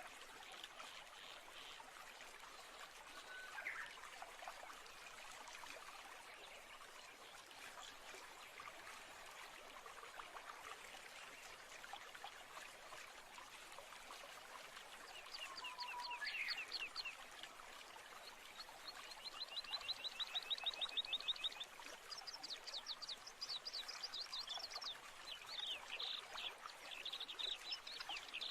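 Stream running with a steady hiss, and birds singing over it from about halfway through: quick trills and chirps, the loudest a fast trill of rapidly repeated notes.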